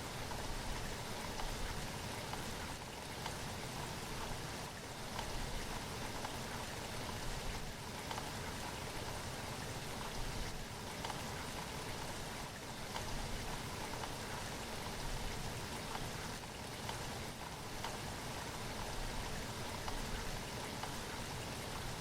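Steady rain falling, an even hiss with occasional louder drops standing out.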